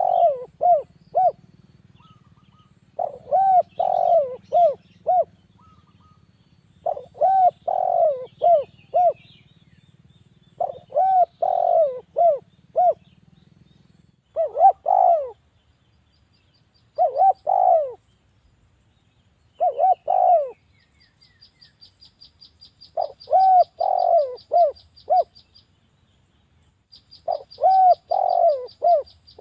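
Spotted dove (derkuku) cooing its repeated multi-note phrase, about nine times, every three to four seconds. Over the second half a fast, high ticking trill runs alongside.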